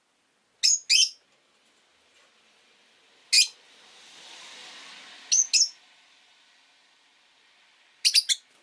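Rosy-faced lovebirds giving short, sharp, high-pitched chirps in small bursts: a pair, a single, another pair, then three in quick succession near the end. A faint rushing noise swells and fades in the middle.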